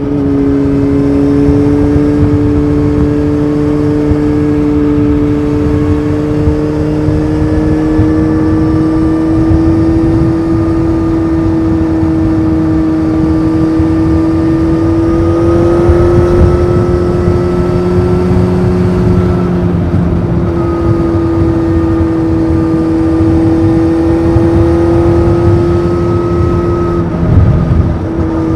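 Honda CBF 600's inline-four engine with an aftermarket titanium sport exhaust, heard on the move: a steady engine note that climbs slowly, steps down about twenty seconds in, and dips again briefly near the end, with wind rush underneath.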